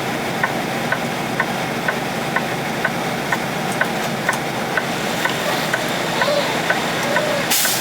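Inside a semi-truck's cab: the truck's engine and road noise run steadily while the turn-signal indicator ticks evenly, about two ticks a second.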